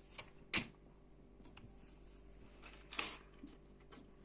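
Small plastic building-block pieces clicking and knocking as they are handled: two louder clacks, about half a second in and about three seconds in, among a few lighter ticks.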